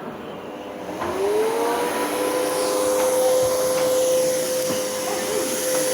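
Miele bagged upright vacuum cleaner switching on about a second in: its motor whine rises in pitch as it spins up, then holds a steady tone over the hiss of rushing air.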